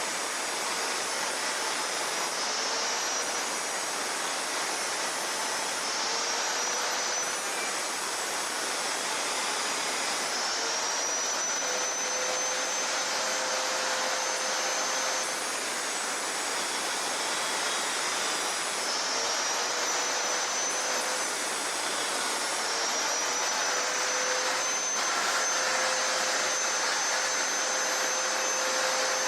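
A 4.5-inch angle grinder running on the steel mill frame, a steady high whine whose pitch sags under load and climbs back several times.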